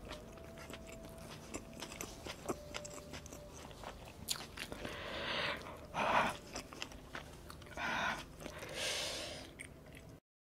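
Close-miked chewing of a burger with shredded lettuce: wet mouth clicks and crunching. There are a few louder breathy swells in the second half, and the sound cuts off abruptly near the end.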